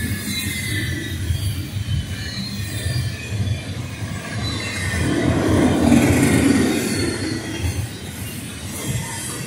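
Double-stack container freight train rolling past at speed: a steady rumble of steel wheels on the rails and cars clattering by, swelling louder about halfway through.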